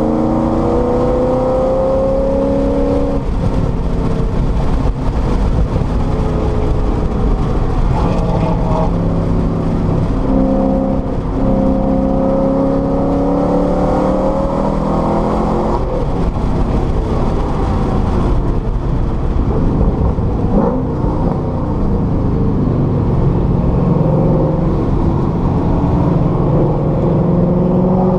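A car's engine heard from inside the cabin while lapping a race track. It climbs in pitch under hard acceleration and falls back at gear changes or braking several times, and it is rising again near the end.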